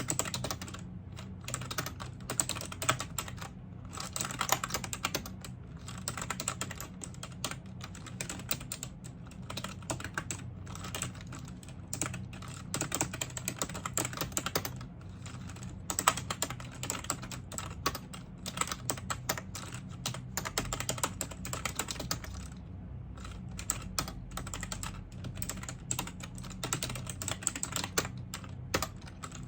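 Typing on a computer keyboard: a fast, continuous run of keystroke clicks with a few brief pauses.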